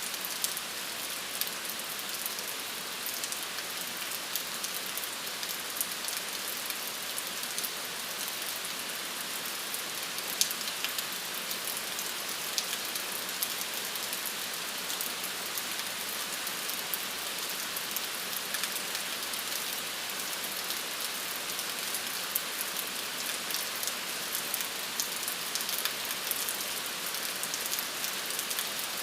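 Steady rain falling on a hard surface: an even hiss with many individual drops heard landing.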